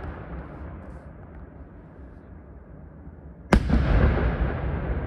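Aerial fireworks shell bursting with one sharp bang about three and a half seconds in, followed by a long rolling echo. Before the bang, the rumbling echo of an earlier burst dies away.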